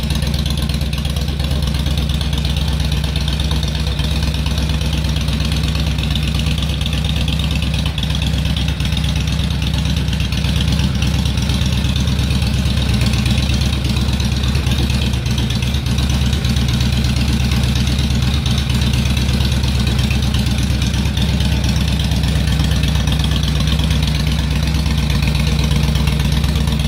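Honda VTX1300R's V-twin engine idling steadily, with no revs.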